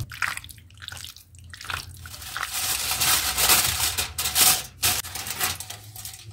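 Kitchen food-preparation sounds: clicks and knocks of utensils and dishes, with a dense noisy stretch of about two seconds in the middle.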